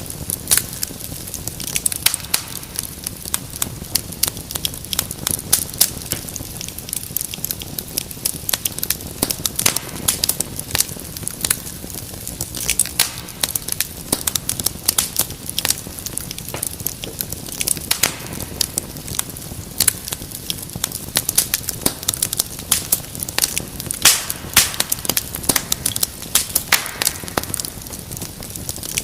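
Wood fire crackling in a fireplace: a dense, irregular run of sharp pops and snaps over a steady low hiss and rumble of burning.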